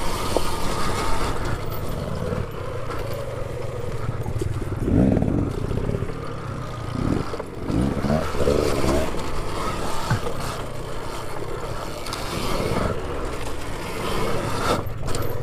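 A dirt bike running steadily, with faint voices now and then.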